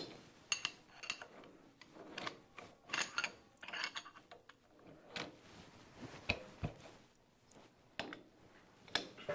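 Scattered metallic clinks and clicks of metal stock and tools being handled at a metal lathe while the workpiece is set in the chuck, with a duller knock about six seconds in. The lathe is not running.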